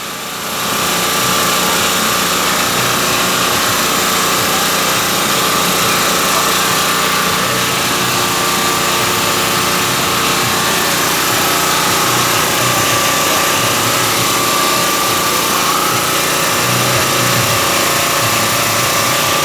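Boat engine running steadily, a continuous mechanical drone with a faint high whine.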